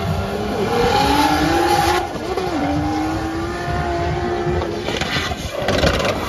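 Nissan Silvia S15 drift car's swapped Toyota 2JZ straight-six engine revving hard while sliding, its pitch wavering up and down, with tyres skidding beneath it. The engine note jumps abruptly about two seconds in and again about five seconds in.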